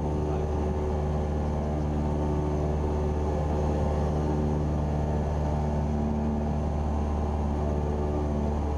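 Cessna 172R Skyhawk's four-cylinder Lycoming engine and propeller droning steadily in flight, heard inside the cockpit.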